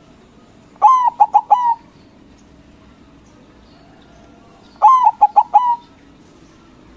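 White zebra dove (perkutut) singing: two cooing phrases about four seconds apart, each a first drawn-out coo followed by a few quick clipped notes and a longer closing coo.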